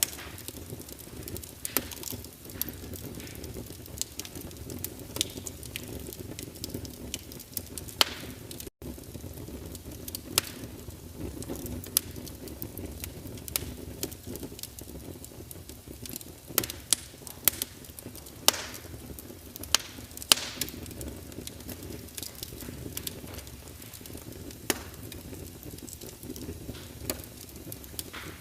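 Wood fire burning in a fireplace: a steady low rumble of flames with irregular sharp crackles and pops from the burning logs, several louder pops coming close together a little past the middle.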